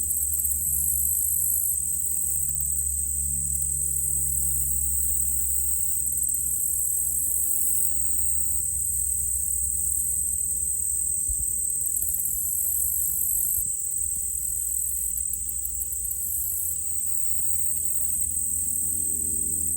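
Steady chorus of insects such as crickets: an unbroken high drone, with pulsing chirring above it, over a low steady rumble.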